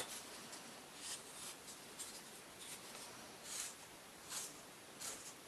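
Faint scratchy strokes, about eight at irregular intervals, like hand work rubbing or scratching on a surface.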